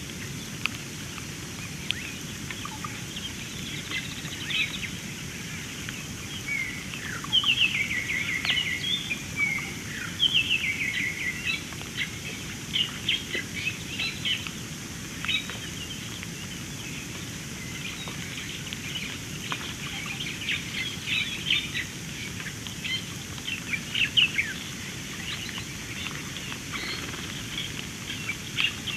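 Birds calling: many short, high chirps throughout, with some longer notes that fall in pitch and then level off, over a steady background hiss.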